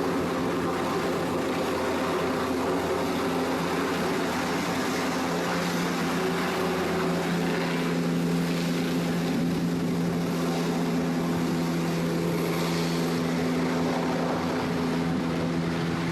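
Helicopter running steadily: a continuous drone of engine and rotor with an unchanging hum.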